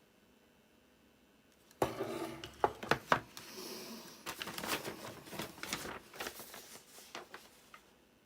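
Rustling and clattering of small objects being handled on a work surface, starting suddenly about two seconds in as a run of sharp clicks and knocks that tails off near the end.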